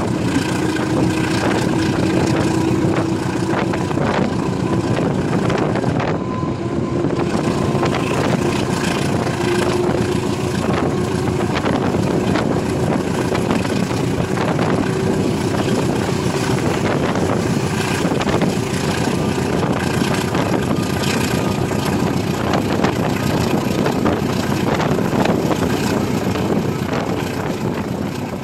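Running noise of a diesel-hauled passenger train heard from on board: a steady rumble of wheels on the rails with irregular clicks, and an engine drone whose pitch creeps up slowly as the train gathers speed. The sound fades a little near the end.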